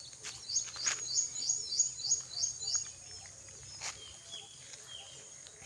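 A bird singing: a run of about seven quick, high, falling notes, roughly three a second, then a few lower notes near the end.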